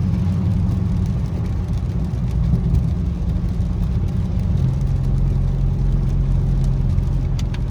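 Dodge Charger Scat Pack's 392 HEMI V8 running steadily at low revs while cruising, heard from inside the car, over a faint even hiss of road noise. About four and a half seconds in, the engine note settles onto a new steady pitch.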